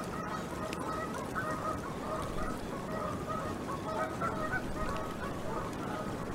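Geese honking over and over at a distance, with steady wind noise on the microphone.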